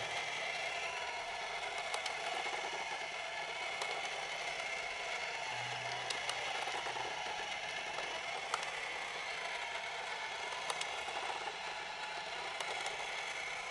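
Haynes model combustion engine kit running on its small electric motor: the plastic gears and moving parts whir steadily, with scattered light clicks.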